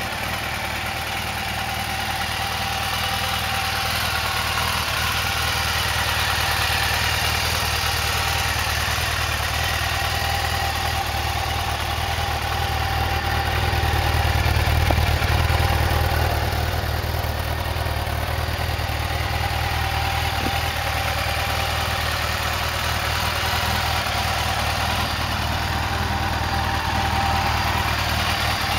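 Yamaha FJR1300's inline-four engine idling steadily. It gets louder for a couple of seconds about halfway through, close to the twin exhaust mufflers.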